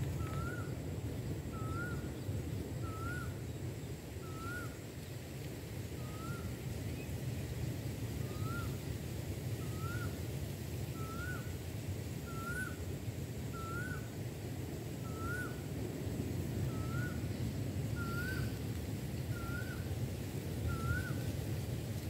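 A bird repeating a short, rising whistled note roughly every one and a half seconds, over a steady low rumble of outdoor noise.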